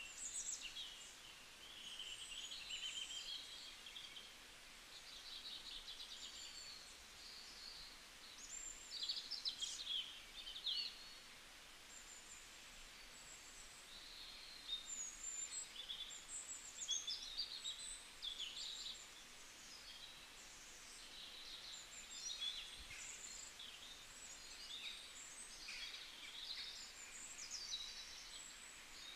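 Small birds chirping and twittering on and off in short bursts of calls, over a faint steady background hiss.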